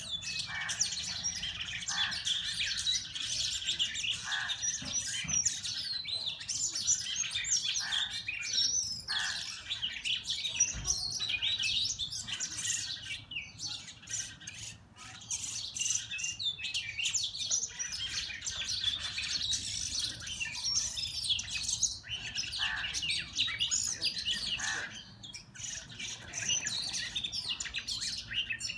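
Several songbirds chirping and calling over one another without pause: a dense run of short, high chirps and whistles, with a few lower calls mixed in.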